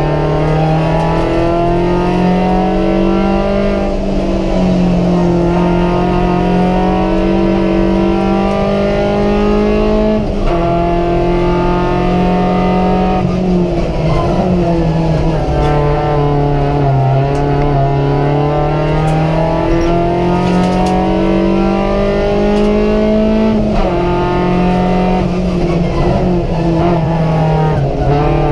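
Opel Corsa's 1.4-litre Z14XEP four-cylinder petrol engine under hard acceleration, heard from inside the cabin. The engine note climbs steadily in pitch, then drops back sharply between pulls, several times over.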